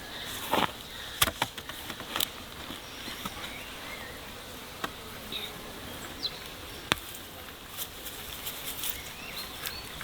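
Insects buzzing steadily, with scattered sharp clicks and a few short chirps.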